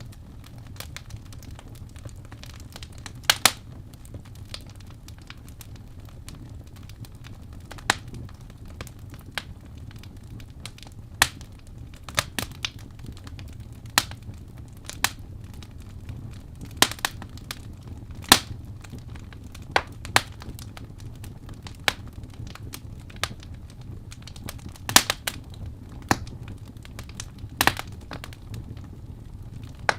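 Wood fire crackling in a fireplace: irregular sharp pops and snaps, some in quick pairs, over a low steady rumble.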